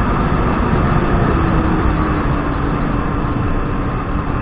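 Kawasaki 1200 jet ski running under way, a dense steady rush of engine and water noise with a faint engine note that slowly drops in pitch from about a second in.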